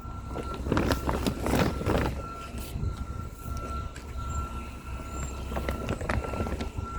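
Hands working through and pulling apart a root-bound mass of potting soil, in bursts of rustling and crumbling, strongest in the first two seconds. Under it runs a steady low rumble and a faint steady high whine.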